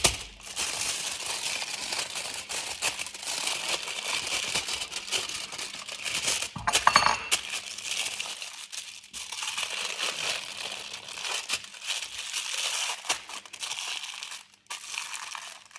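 Continuous crinkling and rustling of crinkly wrapping material being handled and folded. A brief clink comes about seven seconds in.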